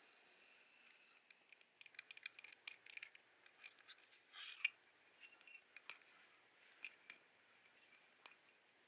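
Scattered light clicks and taps of small hard objects being handled, with a brief louder rustle about four and a half seconds in.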